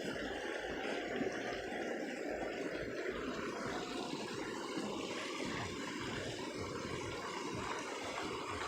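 River water rushing, a steady even rush with no breaks.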